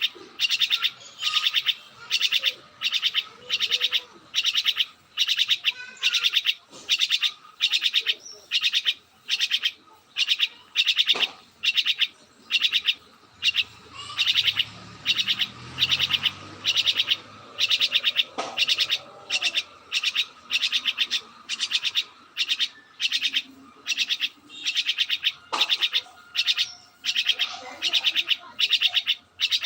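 A bird chirping over and over in a steady rhythm, about one and a half high, buzzy chirps a second.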